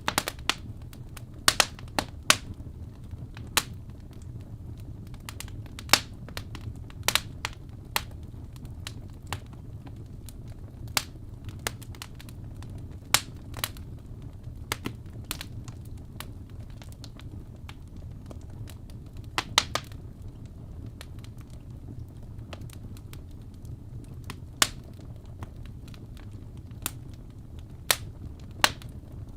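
Log fire in a fireplace crackling: irregular sharp pops and snaps over a steady low rumble of the flames.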